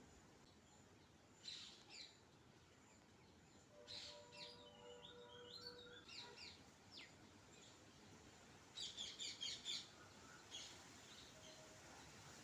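Small birds chirping faintly: scattered short calls and quick pitch-sliding notes, then a rapid run of about eight chirps about three-quarters of the way through.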